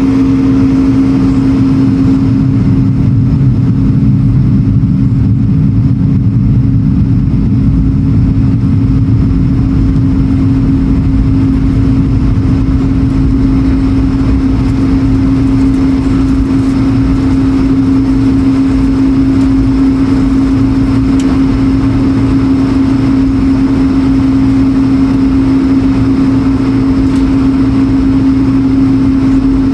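Airbus A220-100's Pratt & Whitney PW1500G geared turbofan engines running steadily, heard from inside the cabin as a loud, even drone with one steady hum over a low rumble.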